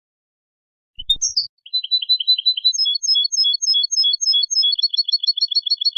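A European goldfinch singing: high, clear repeated notes in short phrases, quickening into a fast trill near the end. A soft knock comes just before the song begins, about a second in.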